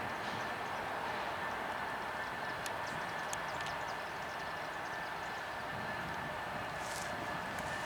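A freight train heard at a distance: a steady low rumble under a steady high hum, with a few faint clicks about three seconds in and a short hiss near the end.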